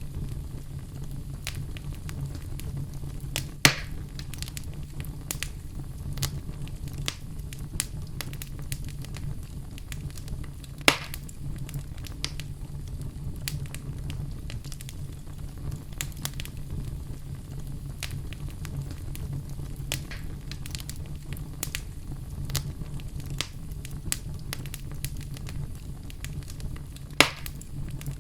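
Wood fire in a fireplace crackling, with frequent small snaps of burning logs and three louder pops spread through, over a steady low rumble.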